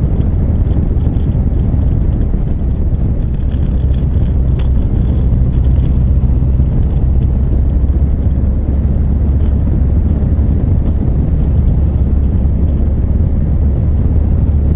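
Honda CB1300 Super Bol d'Or's inline-four engine running steadily as the motorcycle is ridden along, heard from the rider's seat.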